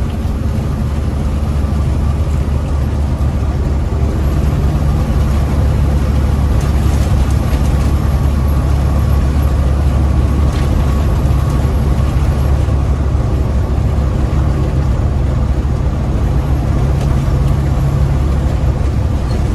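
Big rig truck's diesel engine running at a steady cruise, heard from inside the cab as a loud, unbroken low drone with road noise.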